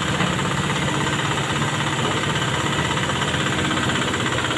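Heavy transport truck's diesel engine running steadily at low revs with a fast, even clatter.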